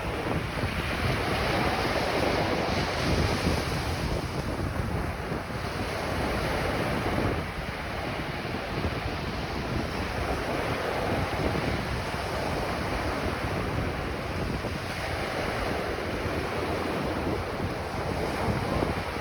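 Ocean waves breaking and washing on a beach, the surf swelling and easing every few seconds, with wind buffeting the microphone.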